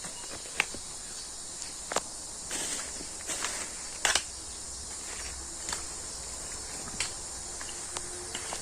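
Steady high-pitched insect chorus, with a scatter of short crunches and knocks from leaves and soil being handled close by.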